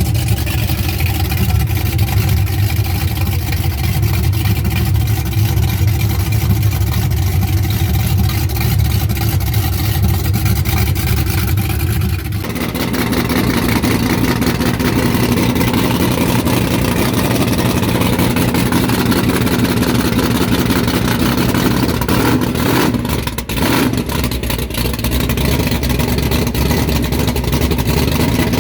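Loud engine of a hot-rodded drag-style car running steadily. About twelve seconds in, the sound changes abruptly to a rougher, higher-pitched rumble.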